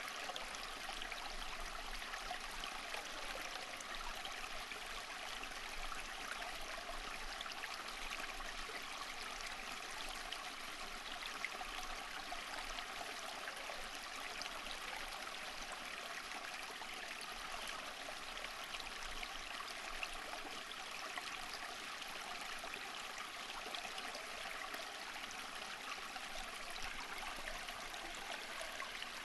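Stream water flowing steadily over rocks, a continuous bubbling rush.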